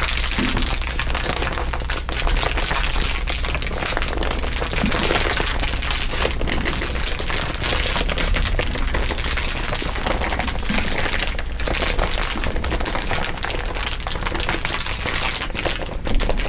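Dense, continuous crinkling of crinkly material, several layers of it at once, a steady crackle of many fine clicks, with a low steady hum underneath.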